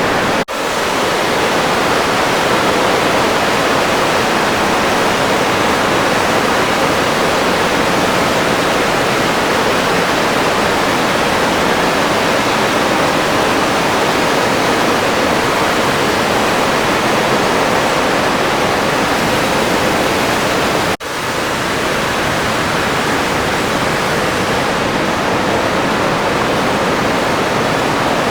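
Steady in-flight noise of an open-cockpit Air Cam plane, with wind rushing over the microphone and engine noise blended into an even roar that has no clear engine tone. It drops out briefly twice, near the start and about two-thirds of the way through, where clips are spliced together.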